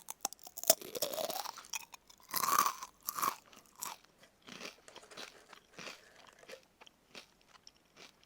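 Close-miked eating of crispy karaage (Japanese fried chicken): a few loud crunchy bites in the first three seconds or so, then quieter chewing with small crackles.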